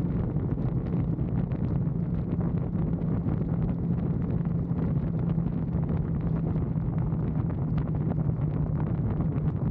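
Motorcycle engine running at a steady cruising speed, a constant low hum, under heavy wind buffeting on the helmet microphone.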